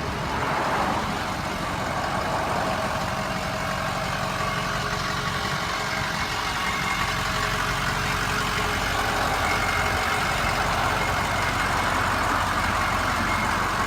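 Ford F-250 Super Duty's 6.0-litre Power Stroke turbo-diesel V8 idling steadily.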